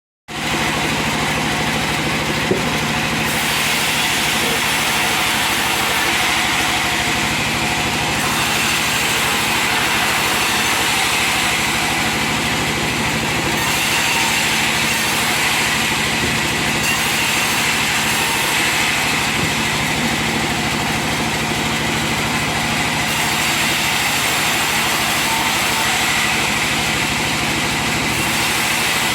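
Sawmill saw machinery running steadily with a constant motor hum and hiss, starting just after the beginning.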